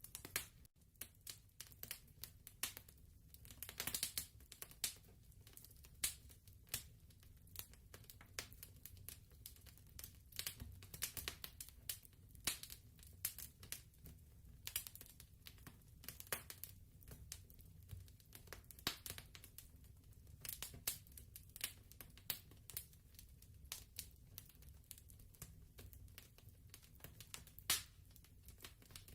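Wood fire crackling softly, with irregular snaps and pops over a low steady rumble.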